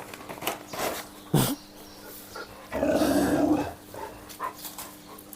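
Puppies growling in a brief scuffle over food: a few short sharp sounds in the first second and a half, then a louder growl lasting about a second, about three seconds in.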